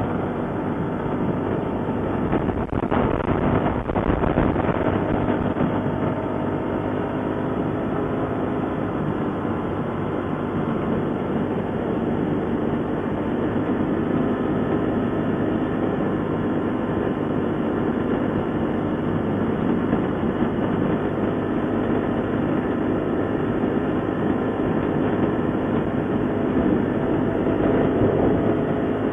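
ATV engine running steadily while riding, with a continuous rumble and rattle; a few sharp knocks about three to four seconds in.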